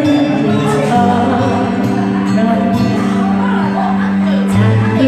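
A husky-voiced singer singing a slow Korean song live over instrumental accompaniment with a steady sustained bass line.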